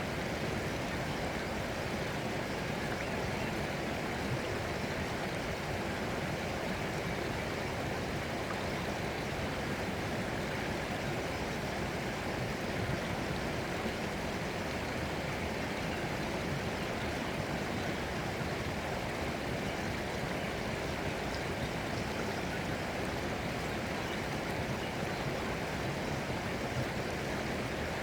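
Water flowing steadily in a stream, an even rushing and gurgling that never changes.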